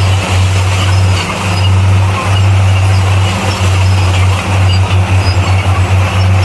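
Bulldozer's diesel engine running with a steady low drone that flutters briefly a few times.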